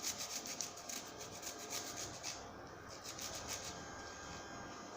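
A garlic clove being grated on a grater: quick rasping strokes, about five a second, that grow weaker after about two seconds and stop near the middle.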